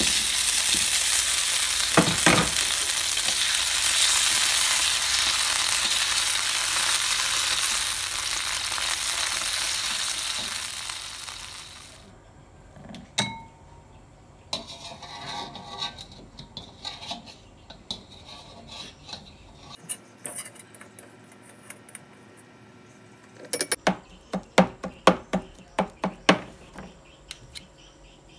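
Chopped green tomatoes sizzling in hot oil in a wok, with one clink about two seconds in. The sizzle cuts off about twelve seconds in, and near the end comes a quick run of sharp knocks.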